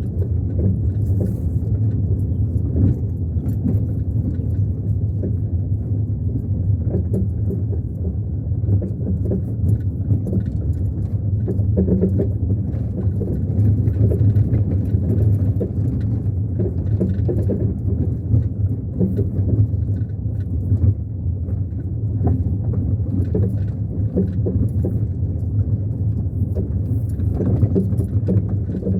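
Car being driven: a steady low rumble of engine and road noise, with small rattles and knocks throughout.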